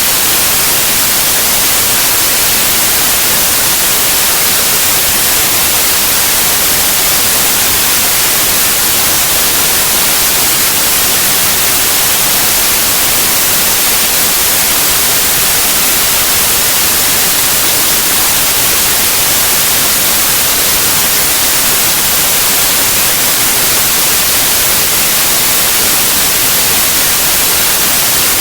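Steady white noise: an even, unchanging hiss across all pitches, brightest in the highs, with no breaks or changes.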